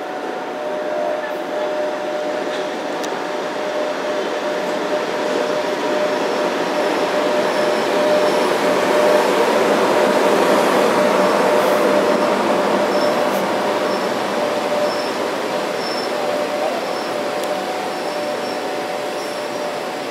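EP1M electric locomotive and its passenger carriages rolling slowly into the station. The rumble has a steady high whine running through it. It grows loudest as the locomotive passes directly beneath, about halfway through, then eases a little as the carriages follow.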